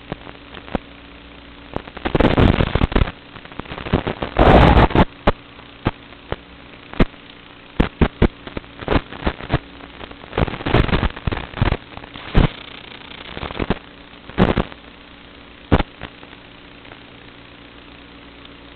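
FPV quadcopter motors spinning Kingkong 5040 three-blade propellers: a steady hum broken by a string of sudden loud surges, the biggest about two, four and a half, eleven and fourteen and a half seconds in, as the throttle is punched. The hum settles back near the end.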